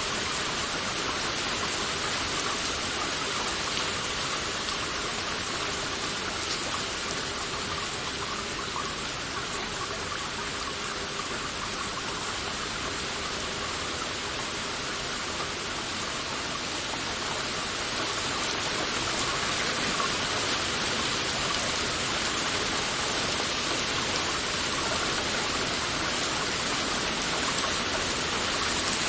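Heavy rain falling in a steady, dense hiss of drops, even and unbroken throughout.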